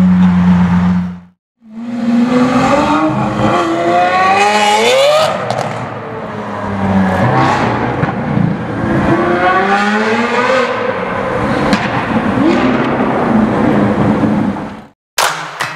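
Lamborghini Aventador SVJ's V12 holding a steady low drone, then, after a brief gap, accelerating hard with its revs climbing in several long rising sweeps through the gears. The sound cuts off abruptly near the end.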